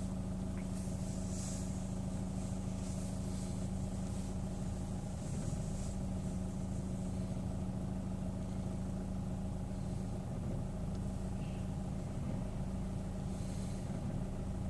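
Chevrolet Orlando engine idling steadily, clutch released: a constant, even hum that holds the same pitch throughout.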